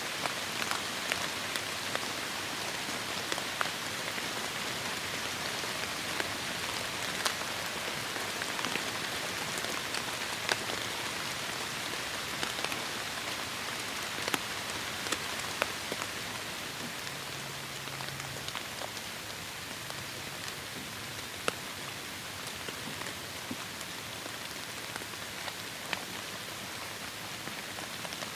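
Heavy rain falling steadily: a dense hiss with scattered sharp drop hits, easing slightly about halfway through.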